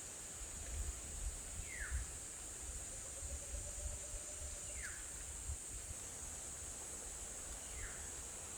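Outdoor nature ambience: a steady high insect drone, with a bird giving a short downward-slurred call three times, about three seconds apart. An uneven low rumble runs underneath.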